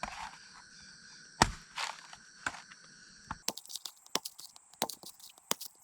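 A steady insect chorus that cuts off suddenly about three and a half seconds in, with scattered crunches and sharp clicks throughout: one loud knock about a second and a half in, then a run of small, quick clicks.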